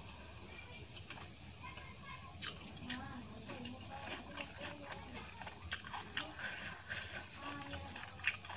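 Close-miked chewing and mouth sounds of a person eating rice and curry, with many short wet clicks and smacks.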